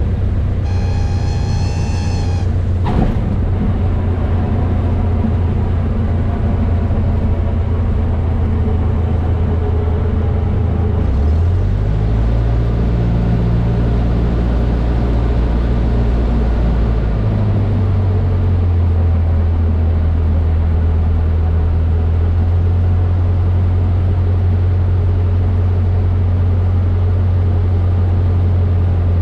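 Cessna 152's Lycoming O-235 four-cylinder engine running steadily, its pitch shifting about 12 seconds in and again near 17 seconds as the power setting changes. Near the start a brief high tone sounds for about two seconds, followed by a click.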